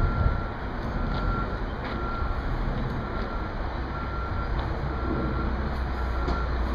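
Vehicle backup alarm beeping steadily at one pitch, about once a second, over the low rumble of an engine and a steady hiss of outdoor noise.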